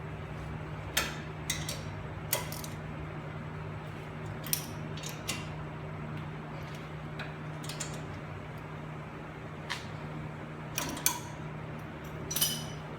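Scattered metallic clinks and clicks of hand tools and parts being handled during front hub reassembly, with a steady low hum underneath.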